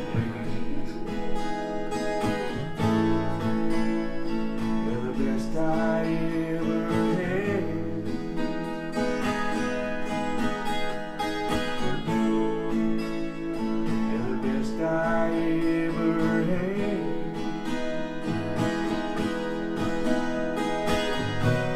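Instrumental break in a live country-style song: acoustic guitar playing, with a lead melody of long held notes over it.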